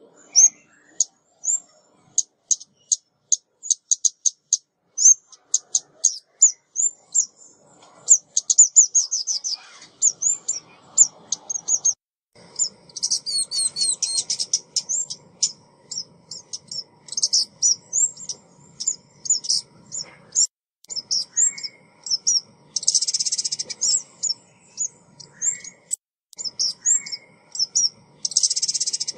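Female ốc mít, a small Vietnamese songbird, calling in a lure recording: rapid high, thin chip notes and short twitters in quick series, with denser buzzy bursts about two-thirds through and again at the end.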